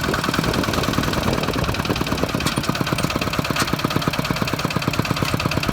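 Kubota walking tractor's single-cylinder diesel engine running steadily with a rapid, even chugging beat.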